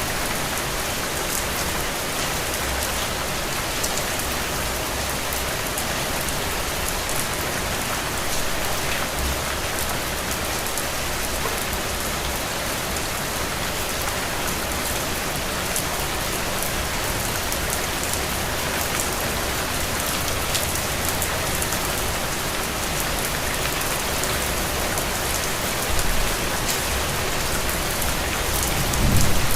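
Steady rain falling on surfaces: a dense, even hiss with many separate drops ticking through it. A low rumble swells near the end.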